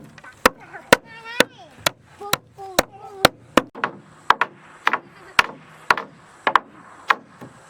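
Repeated sharp blows on wood, about two a second, at a steady working pace.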